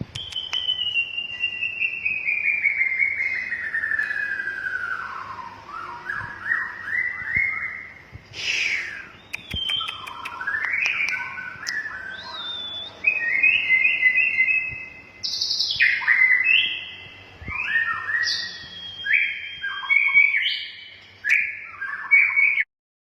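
White-rumped shama (murai batu) singing: a long whistle falling slowly in pitch, then a string of varied, rapidly changing whistled phrases, cutting off suddenly near the end.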